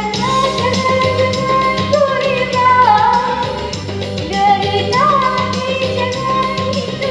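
A solo singer with a high voice sings a melody in long held notes over a backing track that carries a steady beat.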